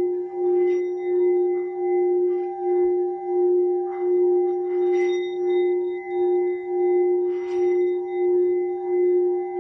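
Singing bowl sounding one sustained low tone with higher overtones. The tone swells and fades regularly, about every 0.7 s, with no fresh strike.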